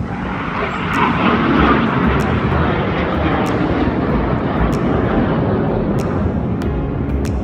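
Jet aircraft flying past: a loud, even rush of jet engine noise that swells about a second in, then holds steady.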